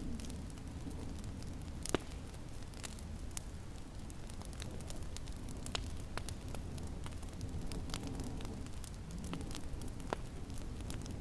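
Wood fire crackling in a fireplace: sharp, irregular pops and snaps, the loudest about two seconds in, over a steady low rumble.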